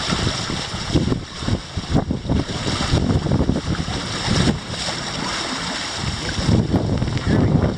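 Strong wind buffeting the microphone in uneven gusts, with water rushing past the hulls of a small catamaran sailing fast in a fresh 17-22 knot breeze.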